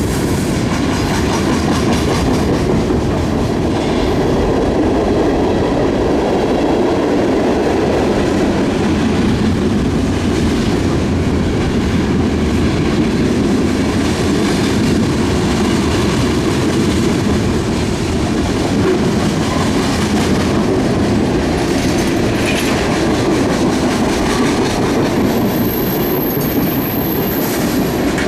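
Cars of a long CN freight train rolling past steadily on the rails, with a thin high squeal for a few seconds near the end.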